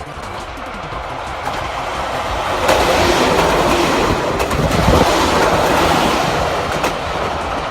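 Nagano Electric Railway 1000 series 'Yukemuri' limited-express train passing over a level crossing, its wheels clicking over the rail joints. It grows louder, is loudest for about three seconds in the middle, then fades.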